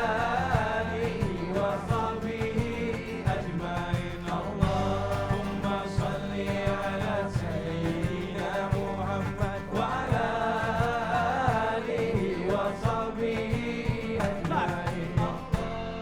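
Live band playing a salawat devotional song: a chant-like melody over bass, oud and hand percussion, with a steady beat.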